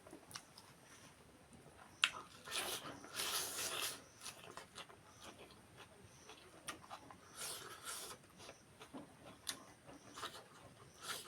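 Close-up eating sounds from a meal of fish curry: chewing and mouth noises in short bursts, with a sharp click about two seconds in.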